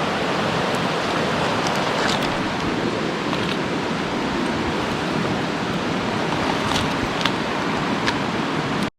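Steady rush of water, with a few faint clicks; it cuts off abruptly near the end.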